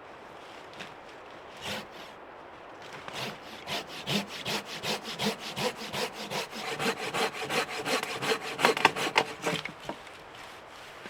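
Hand saw cutting through a solid fallen log, in quick back-and-forth strokes at about three a second, stopping a little before the end.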